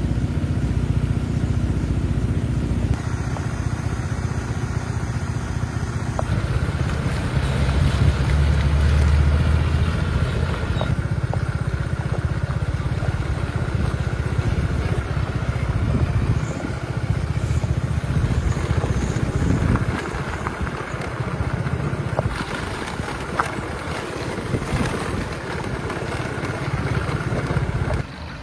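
A vehicle's engine running steadily while moving, with rushing wind or road noise over it. It swells around eight seconds in and eases off a little after twenty seconds.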